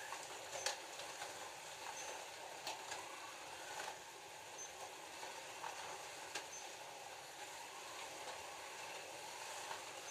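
Scalextric slot cars running around the track, a steady whir of their small electric motors and pickups on the rails, with a few sharp clicks scattered through it.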